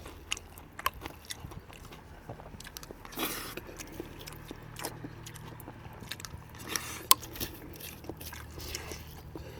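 A person chewing and eating mouthfuls of food, with scattered small clicks and one sharp click about seven seconds in.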